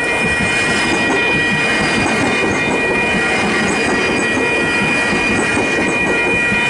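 A train passing over the level crossing: a steady, loud rush and rumble of wheels on the rails, with some wheel squeal, and steady high ringing tones over it.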